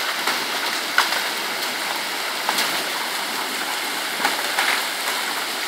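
Heavy storm rain pouring down in a steady rush, with a few sharp taps of impacts near the microphone scattered through it.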